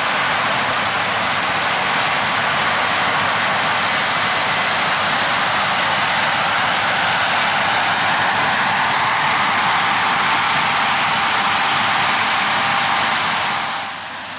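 Harvest machinery running in a corn field, most likely a combine harvesting corn: a steady, loud mechanical rush of engine and threshing noise that drops away suddenly near the end.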